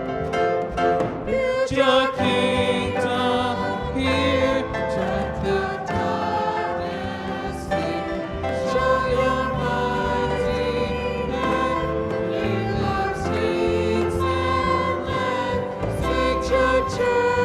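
Choral music: a choir singing sustained lines over instrumental accompaniment.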